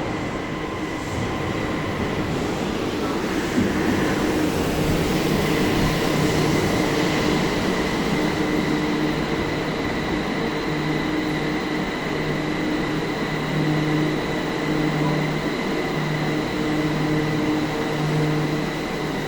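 Kobe City Subway Kaigan Line linear-motor train pulling into an underground station: running rumble with a steady high whine from its drive, which starts to drop in pitch at the very end as the train slows.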